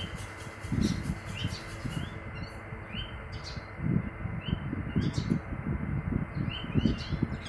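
Small birds chirping: short rising chirps repeated about once a second, over low rustling and thumping.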